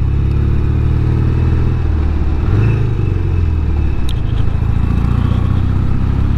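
Norton Commando 850 Mk2's parallel-twin engine running under way, its pitch rising briefly about halfway through and then settling back.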